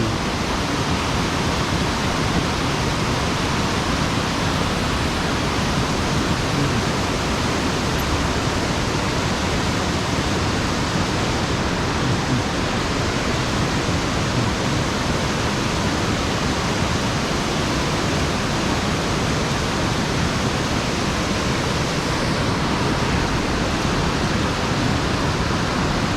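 Mountain stream water rushing steadily, an even, unbroken wash of falling and flowing water.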